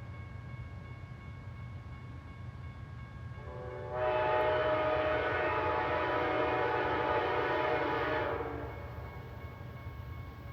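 Amtrak diesel locomotive's air horn sounding one long chord of several notes for about five seconds, starting about three and a half seconds in, over the steady low rumble of the train.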